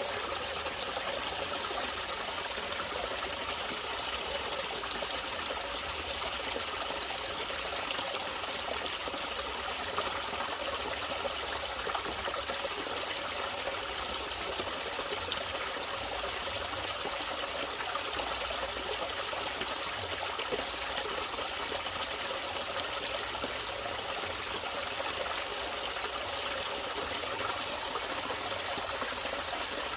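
Natural flowing water trickling and splashing steadily, like a small stream running over stones.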